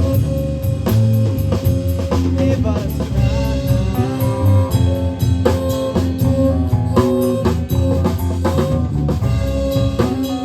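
Live rock band playing an instrumental passage: drum kit keeping a steady beat with rimshots, with guitar and bass.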